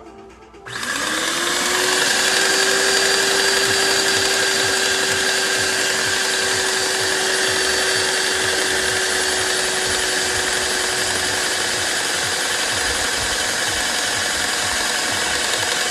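Airless paint sprayer pump starting up and running steadily, purging leftover water from the hose through the spray gun. Its motor hum rises in pitch just after it starts, then holds a steady whine over a loud hiss.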